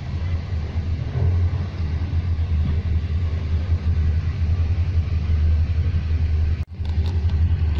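Steady low rumble of a train running along the track, heard from on board. The sound cuts out for an instant near the end.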